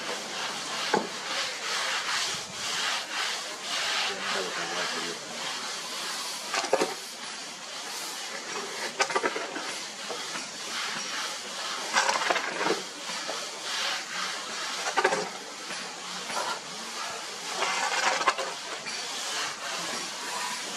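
Masons' hand tools scraping cement plaster over brick, a steady rasping scrape broken by sharp knocks and clicks every few seconds.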